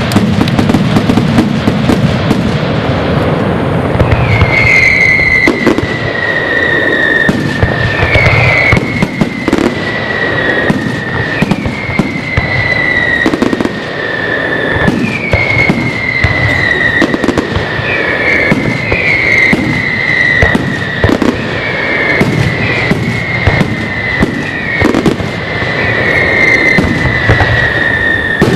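Fireworks going off in quick succession: dense bangs and crackling. From about four seconds in, a run of high whistles falls slightly in pitch, one every second or two.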